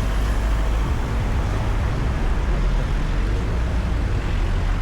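Steady low rumble of town street ambience, traffic-like, with faint voices in the background.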